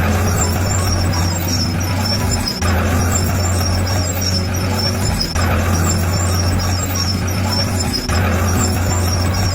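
Bulldozer's diesel engine running with a steady low drone, shifting abruptly about every two and a half seconds.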